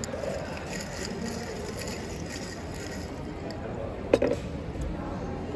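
Background murmur of people's voices over a steady hum of outdoor traffic, with one sharp click about four seconds in.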